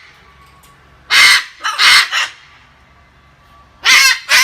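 Parrot screeching in loud, harsh squawks: one about a second in, two in quick succession around two seconds, and two more near the end.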